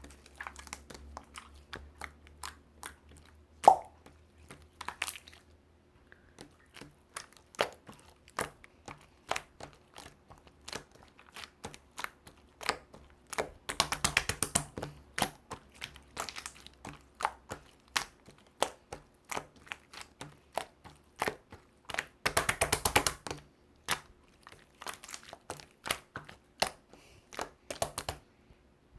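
Irregular small clicks and taps from objects being handled, with two dense crackling runs, one about halfway through and one about three-quarters of the way through, and one sharp loud click near the start.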